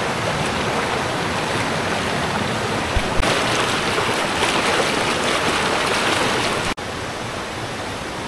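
Rushing water at the top of a waterfall, a steady loud hiss that grows fuller about three seconds in, with a couple of low bumps. It drops out for an instant near the end and comes back quieter.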